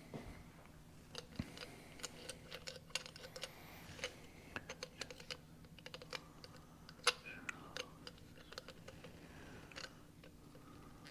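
Light, irregular clicks and taps of small metal parts and hand tools being handled while an injection pump is taken apart, the sharpest about seven seconds in, over a faint steady hum.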